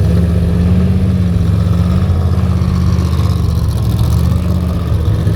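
Vehicle engine running at a steady speed, a low even drone.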